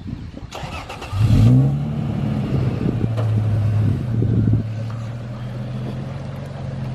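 A vehicle engine starts to rev about a second in, its pitch rising briefly, then settles into a steady run, with a couple of knocks just before.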